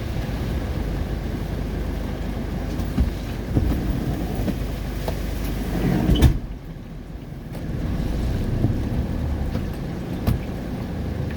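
A vehicle driving through a heavy summer rainstorm: a steady low rumble of the ride mixed with rain noise and scattered sharp taps. The sound turns briefly duller and quieter a little after six seconds in, then picks up again.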